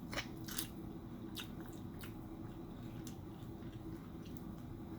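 Close-up eating sounds: a few short, wet smacks and clicks of biting and chewing food dipped in chipotle ranch, over a faint steady low hum.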